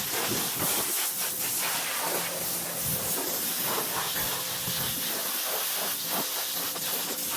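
Pressure washer spraying water against vinyl siding: a steady, loud hiss of the water jet, with a faint hum underneath.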